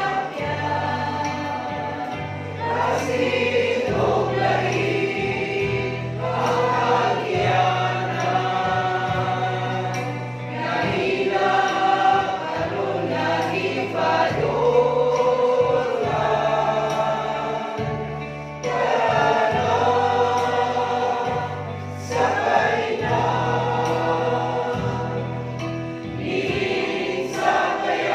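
Choir singing a gospel hymn in parts over an accompaniment with low, held bass notes that change every second or two.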